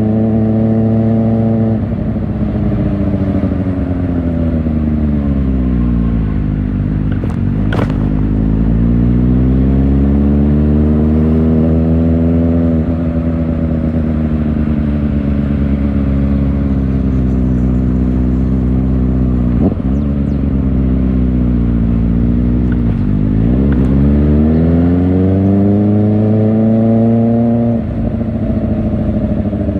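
Kawasaki Ninja ZX-4R's 399 cc inline-four running through an Akrapovic exhaust while being ridden. Engine speed winds down, climbs, winds down again and climbs, then drops sharply near the end.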